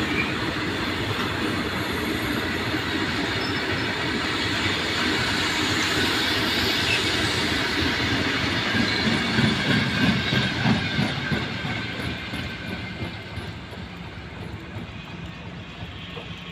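Wheels of a long freight train's open-top wagons clattering and rumbling over the rails as they pass close by. The sound is loudest about ten seconds in, then fades as the last wagon goes by and the train moves away.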